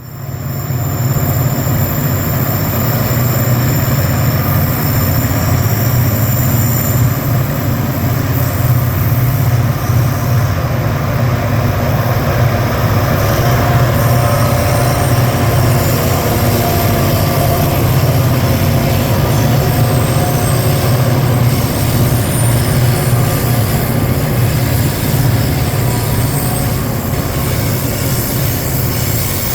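Train running on the rails: a steady, loud rumble, with a thin high wheel squeal in the first several seconds.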